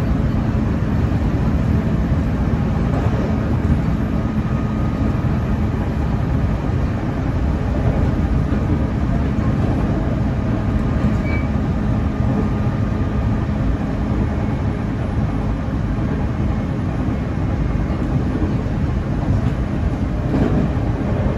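JR Central 311 series electric multiple unit heard from inside the passenger car while running at speed: a steady rumble of wheels on rail and running gear, with a faint steady hum.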